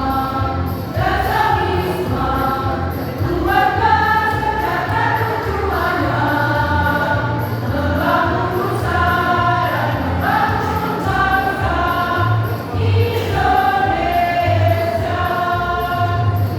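Choir singing a song with musical accompaniment and a steady low beat.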